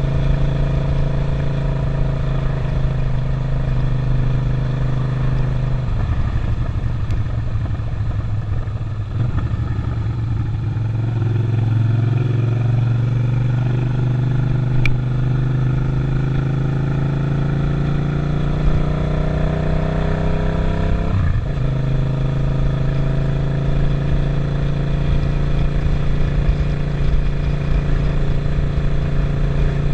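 Suzuki SV650 V-twin motorcycle engine running under way. Its note falters about six seconds in, then climbs steadily for about ten seconds before dropping abruptly about 21 seconds in, then holds steady.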